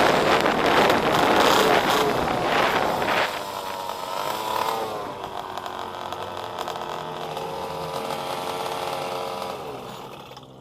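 Pit bike engine running loud and rough at high revs for about three seconds, then revving up and down more quietly as it pulls away, fading out near the end.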